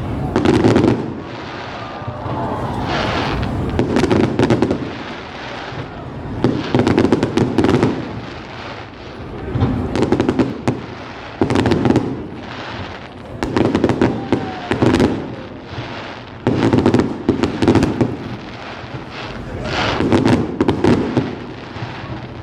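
Fireworks going off: clusters of sharp bangs and crackling pops, a new cluster every second or two.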